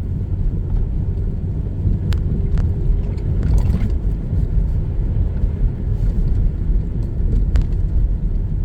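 Car driving, heard from inside the cabin: a steady low road-and-engine rumble, with a few short clicks about two seconds in and again near the end.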